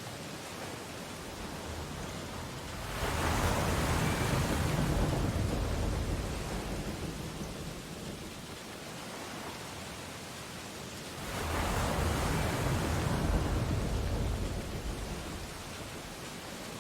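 Ocean waves breaking on a beach: two waves crash, about three seconds in and again about eleven seconds in, each fading back into a steady wash of surf.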